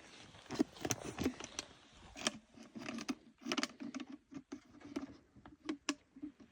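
Irregular clicks, taps and light knocks of small objects being handled, coming unevenly a few times a second.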